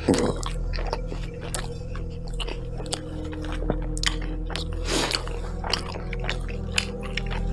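A person chewing and biting into a Subway footlong churro, with irregular crunchy mouth sounds. There is a sharp bite right at the start and another about five seconds in.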